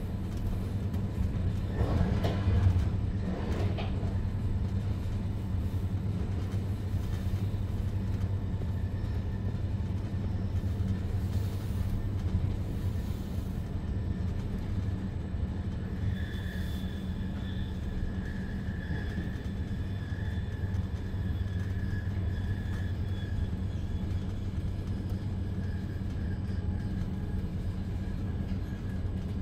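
Steady low rumble of a Re 450 double-deck commuter train running along the track, heard from inside the passenger car. About halfway through, a faint steady high whine joins the rumble.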